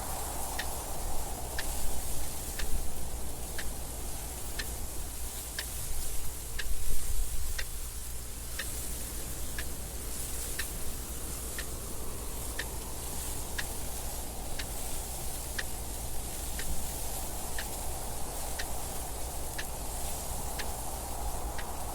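Clock ticking evenly about once a second over steady wind noise, the wind swelling in a couple of gusts in the first half.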